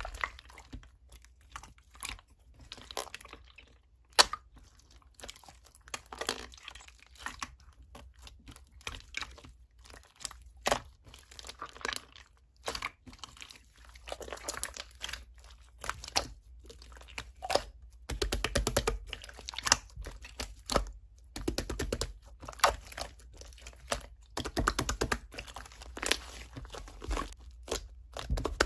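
Slime being squeezed, poked and stretched by hand, giving off irregular crackling, crinkly pops and squelches.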